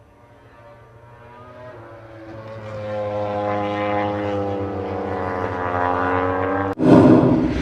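Racing motorcycle engine at steady high revs, growing louder as the bike approaches. About seven seconds in it cuts off abruptly into a louder burst of noise.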